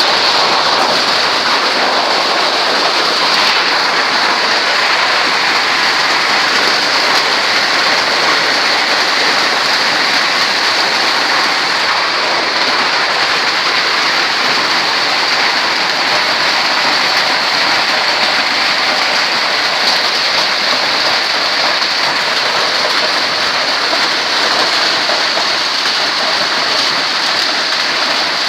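Hail pelting down in a hailstorm: a loud, steady, dense patter with no let-up.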